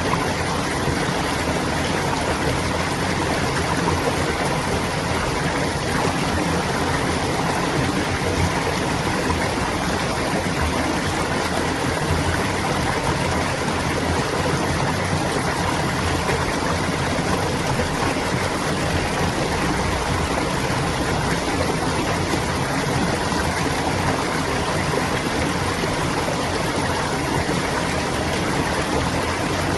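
Clear flowing water babbling steadily, with no change in level.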